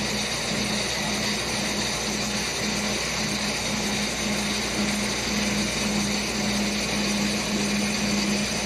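Heavy machine's engine running steadily, with a low hum and a steady high whine above it.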